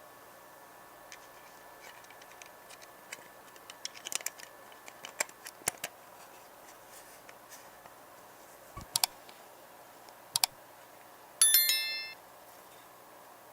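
Small metal parts being handled, with scattered light clicks and taps, then one bright metallic strike near the end that rings on for most of a second like a small bell.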